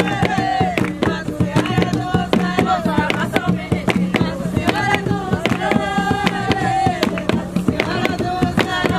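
Jongo music: hand drums beating a fast, steady rhythm under singing voices in long held phrases.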